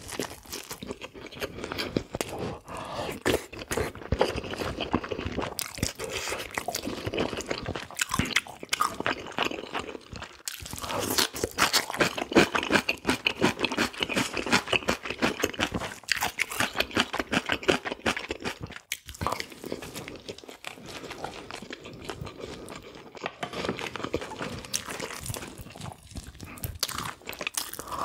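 Close-miked eating of spicy braised pig's feet: biting and chewing with crunching, a dense run of irregular clicks and crackles. The sounds are busiest and loudest from about ten to eighteen seconds in.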